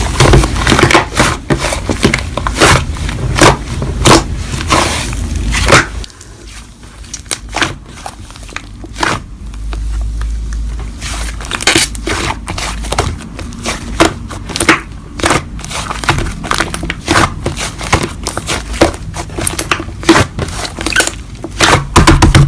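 Slime being squeezed and pressed by hand, with rapid, irregular crackling and popping clicks. The sound drops quieter about six seconds in, then picks up again.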